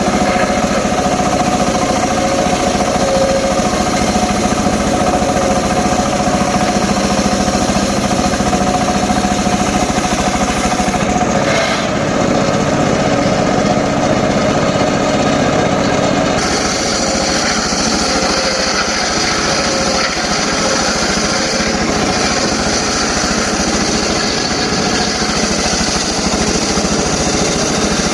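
Homemade circular saw rig running steadily with a motor hum. About 16 seconds in, a brighter hiss joins the sound.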